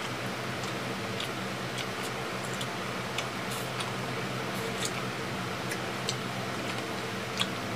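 Close-up eating sounds: irregular small wet clicks and lip smacks from chewing, over a steady low hum.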